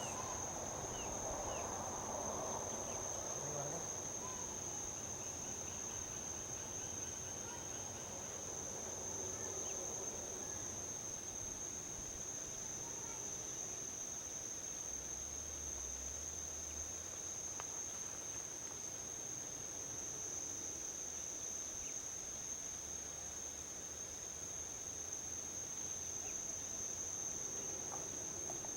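Insects trilling on one steady high pitch, over a faint low rumble of distant highway traffic; a louder rush of traffic fades away in the first few seconds.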